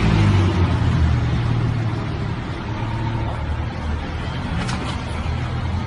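A vehicle engine running steadily with a low rumble, with one faint click late on.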